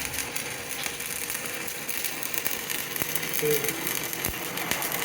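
A lathe turning a steel truck axle while a hand-held cutting tool scrapes the spinning metal: a fast, steady rattling chatter. A single dull knock sounds about four seconds in.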